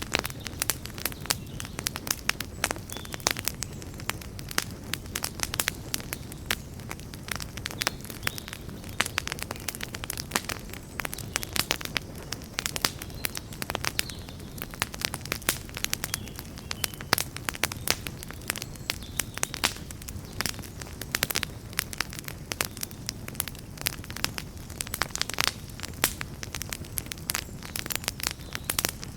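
Wood campfire burning, with frequent sharp crackles and pops, several a second, over a steady low rumble of flames.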